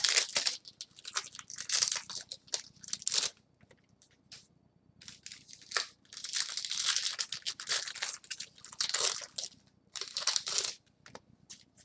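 Plastic or foil wrapping on trading-card packs and boxes crinkling and tearing in irregular bursts of rustling, with a short lull about four seconds in.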